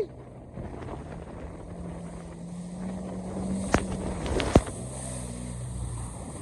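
Jet ski engine running steadily under way, a low hum with wind and water noise, broken by two sharp knocks a little under a second apart just after the middle.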